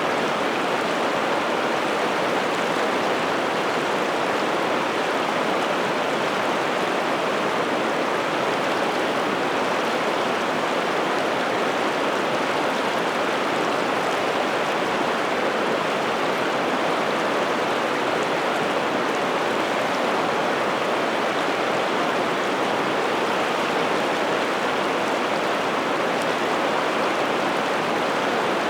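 River water rushing steadily, a continuous even wash of flowing water with no breaks or changes.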